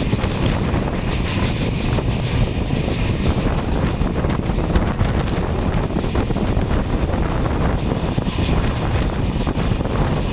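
Passenger train passing close by, its coaches rolling on the rails in a loud steady rush, with wind buffeting the microphone.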